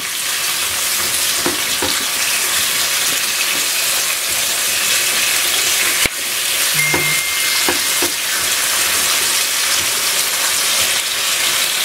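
Chopped onion sizzling steadily in hot oil in a wok over full flame, stirred with a spatula that scrapes the pan now and then, with a brief sharp tick about six seconds in.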